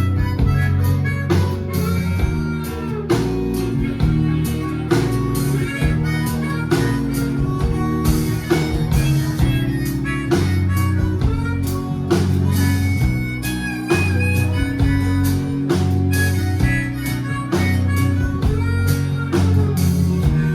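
Live band playing an instrumental break of a bluesy rock song, with a harmonica soloing in held and bending notes over guitar, bass and a steady drum beat.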